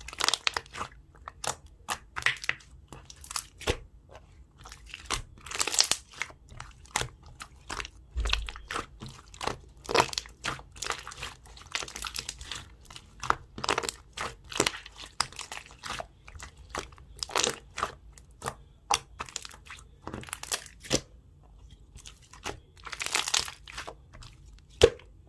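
Jelly slime being pressed and stretched by hand, giving a fast irregular stream of small crackling pops and clicks, with a few longer squelching stretches.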